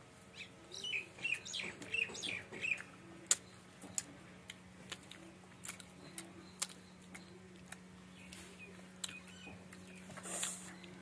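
A bird chirping: a quick run of short, falling chirps in the first few seconds, then a few scattered calls. A few sharp clicks fall in between, and a faint steady hum runs underneath.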